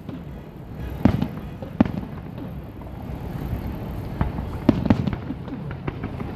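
Fireworks shells bursting: irregular sharp bangs, several close together near the end, over a steady low rumble.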